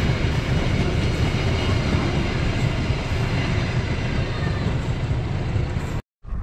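Indonesian passenger train coaches rolling past and moving away, a steady rumble of wheels on rails that eases slightly. The sound cuts off suddenly near the end.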